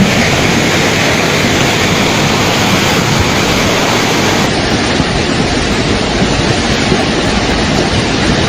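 Fast-flowing floodwater rushing in a steady, loud roar of noise.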